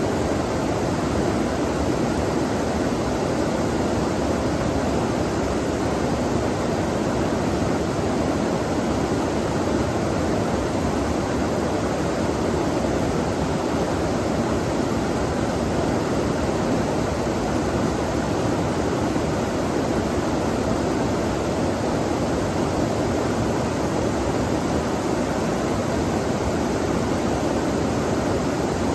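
Running water flowing steadily, an even rushing noise that holds unchanged throughout.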